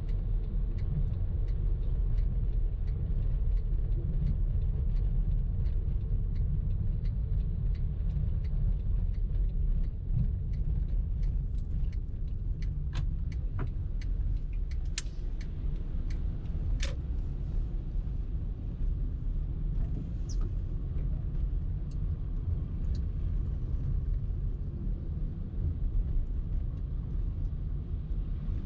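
Car driving in traffic: a steady low road-and-engine rumble, with faint regular ticking through the first half and a few sharp clicks around the middle.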